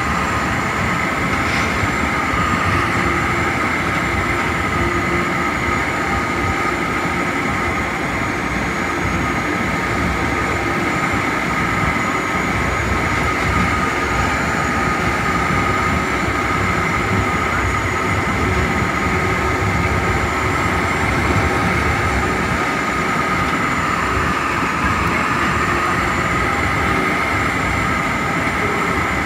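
Metra commuter train running at speed, heard from its cab car: a steady rumble of wheels on the rails with a steady high whine over it.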